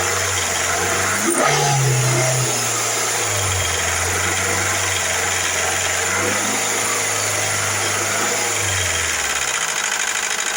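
Car engine with noisy hydraulic lifters running. About a second in it is revved up briefly, then it settles back down toward idle and runs steadily.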